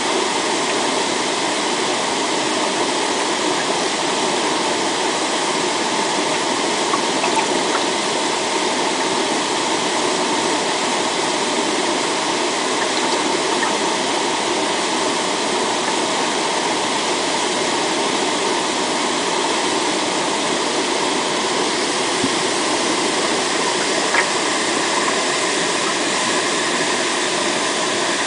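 Waterfall: a steady, unbroken rush of falling water, with a faint tick or two.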